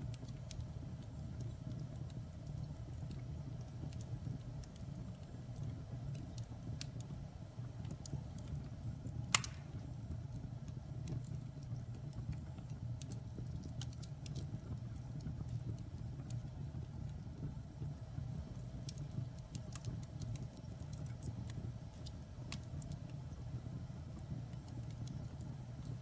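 Wood fire burning in a fireplace: a steady low rumble of flames with scattered small crackles and one sharper pop about nine seconds in.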